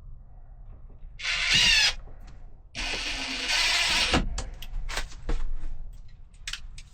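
Power drill/driver running in two short bursts, the first speeding up over about a second, the second longer at about a second and a half, followed by a few light clicks and knocks. The bit in it is the wrong head for the screw.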